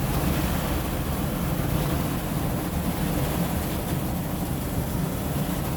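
Automatic car wash water spray hitting the van's body, heard from inside the van as a loud, steady rushing hiss with a low rumble. It cuts off suddenly at the end.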